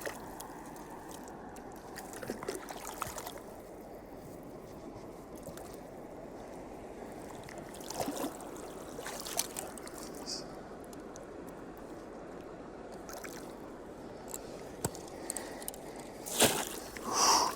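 Stream water running steadily, with a few brief splashes and a louder burst of splashing near the end as a just-caught cutthroat trout is handled in the water and nearly slips away.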